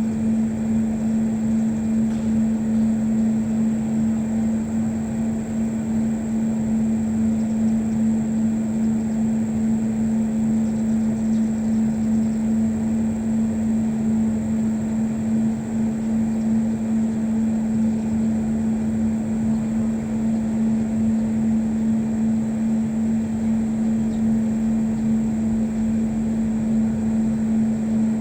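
A steady motor drone at one constant pitch, with a rumble beneath it and no change throughout.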